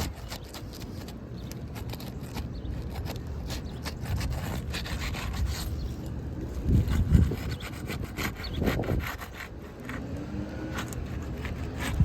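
Irregular scraping and rubbing with small clicks, and low thumps about seven and nine seconds in.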